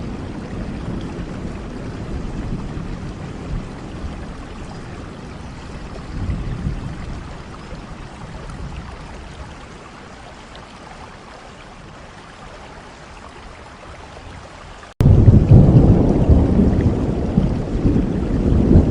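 Rain falling steadily with low rolling thunder that dies away over several seconds. About three-quarters of the way through, a much louder rumble of thunder and rain starts abruptly.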